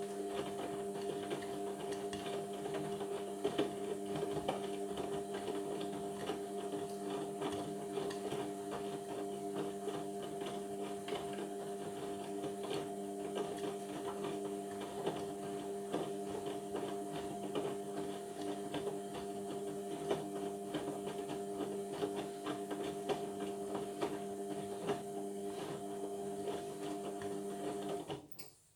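Indesit washing machine running mid-cycle: a steady motor hum of several fixed tones with many small clicks and knocks from the drum. It cuts off suddenly near the end.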